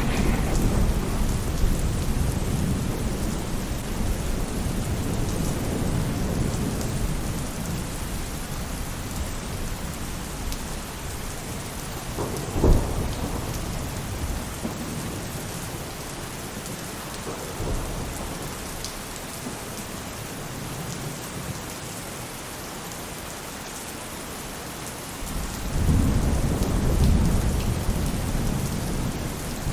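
Steady rain falling on a roof, with thunder: deep rolling rumbles at the start and again near the end, and one sharp clap about halfway through.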